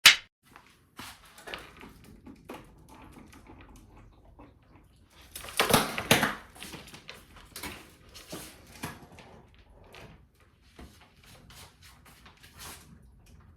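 Irregular knocks, clicks and rustling handling noises in a small room, with a sharp knock at the start and a louder rustling burst about six seconds in.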